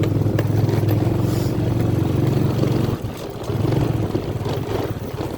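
An engine running close by: a steady low drone that dips briefly about three seconds in, then picks up again.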